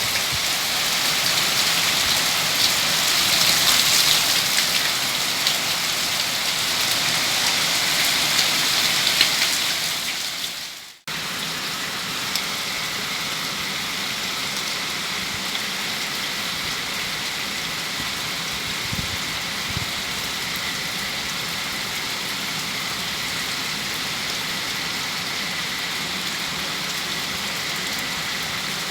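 Very heavy rain falling steadily. The sound cuts out for a moment about eleven seconds in, then carries on a little quieter.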